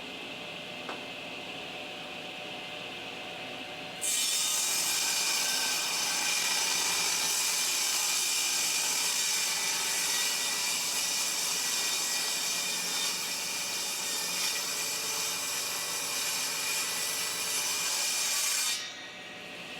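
Worktable sawmill blade cutting through rough timber: a steady hum, then about four seconds in the blade bites into the wood with a loud, high sawing noise that holds evenly and cuts off near the end as the cut finishes.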